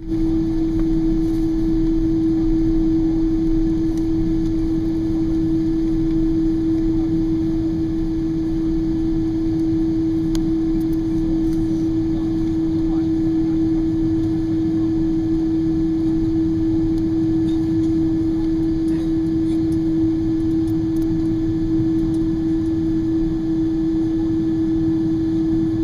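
Steady cabin drone of a Boeing 777-200ER airliner with its engines running at low power before the takeoff roll: a constant mid-pitched hum over a low rumble, with no rise in power.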